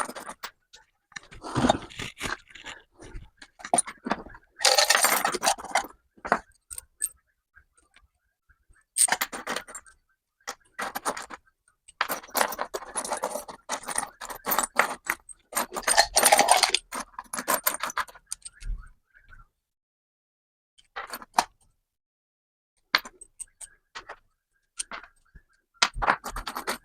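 Metal parts and tools clinking and scraping as they are handled, in irregular bursts with short pauses between them.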